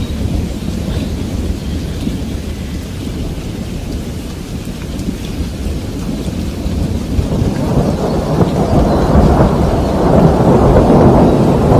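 Rain falling with a rolling rumble of thunder that swells over the second half and is loudest near the end.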